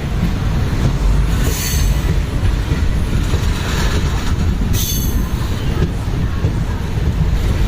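Passenger train coach running on the track: a steady heavy rumble of wheels on rails, with two brief high-pitched wheel squeals, about a second and a half in and again near five seconds.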